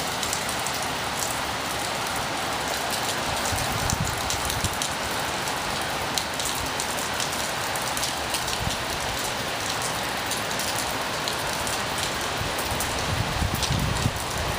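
Heavy rain pouring steadily, with scattered sharp drop ticks. Strong wind gusts over the microphone give a low rumble about four seconds in and again near the end.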